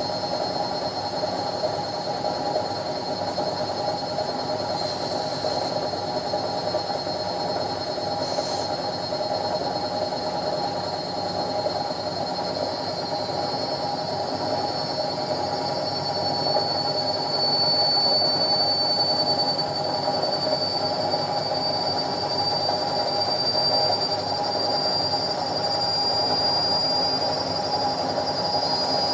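Indesit 71252 washing machine running with a steady hum and a high motor whine that rises slowly in pitch, a little louder from about halfway: the drum speeding up late in the wash programme, typical of a spin.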